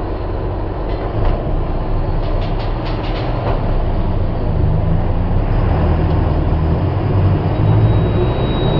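Mercedes-Benz OF-1722M bus engine running steadily, with a few light rattles early on. The engine note grows stronger a little after halfway.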